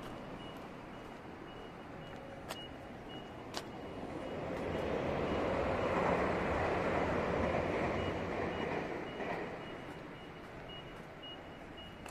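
A Meitetsu electric train passing: its running noise rises from about four seconds in, is loudest a couple of seconds later, then fades. A high electronic beep repeats steadily underneath, and there are two sharp clicks a few seconds in.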